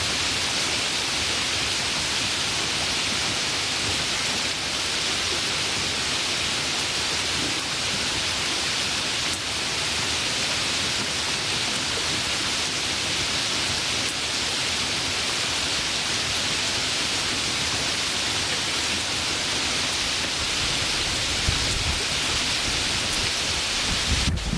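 Steady, even hiss of heavy rain. Near the end a low rumble starts to build, the beginning of thunder.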